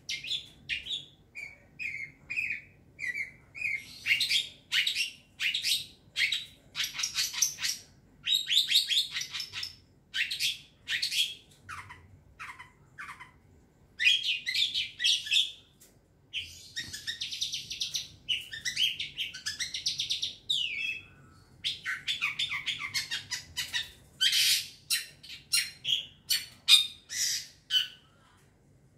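Young wild long-tailed shrike (cendet) calling in phrases of rapid, harsh chattering notes with short pauses between them, and a few short clear whistled notes early on.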